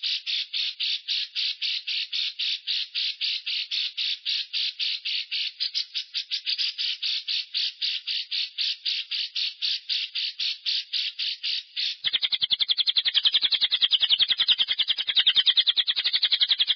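Lovebird giving its long-breath 'ngekek': an unbroken run of rapid, rasping chatter notes, about five a second. About twelve seconds in, it switches to a faster, denser run of the same chatter.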